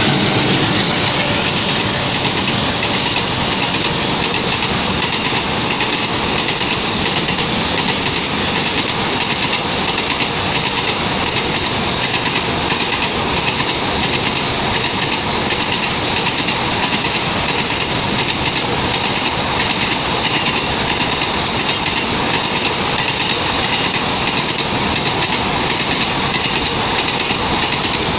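Container freight train passing at speed close by: a steady, loud rumble and rattle of wagon wheels running over the rails as the container wagons go past, a little louder at the start when the locomotive passes.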